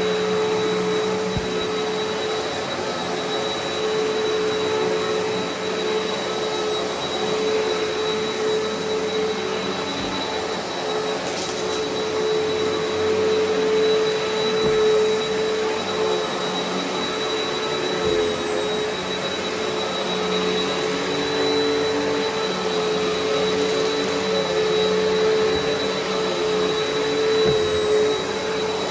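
Eureka Altima upright vacuum cleaner running steadily on carpet, its motor holding one steady pitch throughout.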